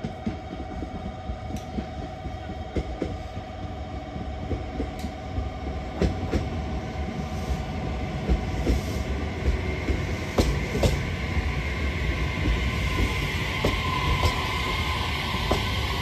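JR Kyushu 817 series electric train pulling into the station and slowing, wheels clicking over rail joints beneath a steady rumble. A high squeal from the wheels and brakes builds over the last few seconds.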